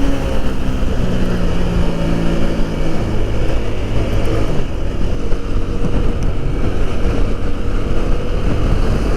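Motorcycle engine running under way, with wind rushing over the microphone; the engine note steps to a different pitch a few times.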